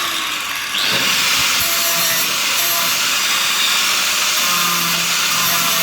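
Angle grinder running against sheet steel, a steady abrasive grinding that picks up as the disc bites about a second in.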